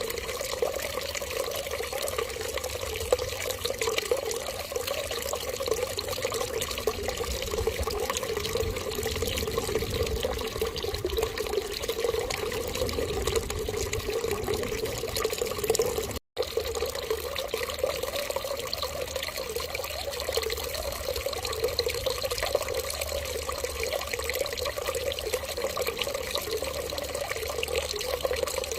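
Steady running water, like a tap running into a sink, with an even, unbroken flow. It cuts out for an instant about sixteen seconds in and resumes.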